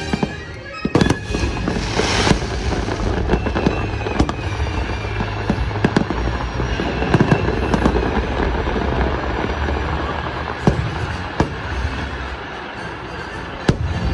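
Aerial fireworks bursting in quick succession: sharp bangs and crackling, with a dense crackling burst about two seconds in, over the show's music.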